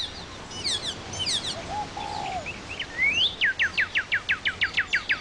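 Wild birds calling and singing: a few quick descending chirps, a short low warble about two seconds in, then a rising whistle that leads into a fast trill of descending notes, about nine a second.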